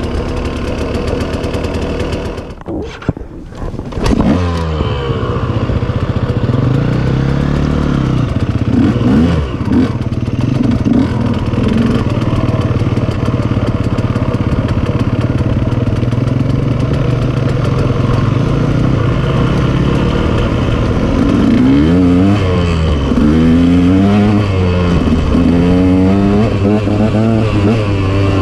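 KTM dirt bike engine running while riding a trail. The sound drops away briefly about three seconds in, then the engine runs steadily. Near the end the pitch swings up and down several times as the throttle is opened and closed.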